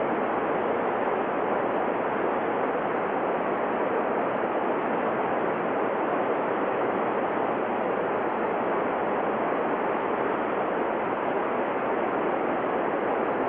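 Whitewater rapids of the Pacuare River rushing steadily.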